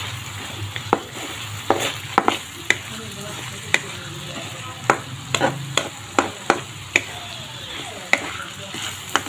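Soaked chana dal frying in desi ghee in a metal pan, sizzling steadily, while a spatula stirs it with irregular scrapes and clicks against the pan. This is the dry-roasting stage, driving the water out of the dal so it soaks up the ghee.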